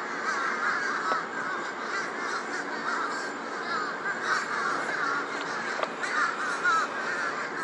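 A large flock of crows cawing without a break, many calls overlapping each other.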